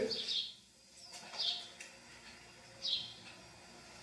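A bird chirping: a short, high, falling note repeated about every second and a half over quiet room tone.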